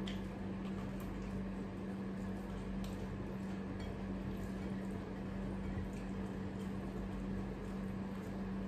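Close-miked eating sounds: soft chewing and occasional wet lip smacks as rice is eaten by hand, over a steady low hum.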